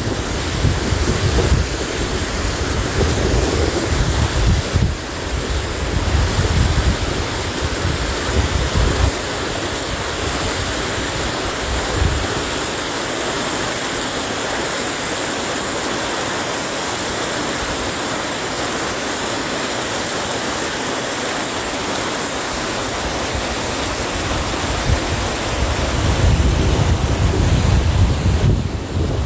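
Mountain valley stream rushing steadily. Wind buffets the microphone for the first several seconds and again near the end.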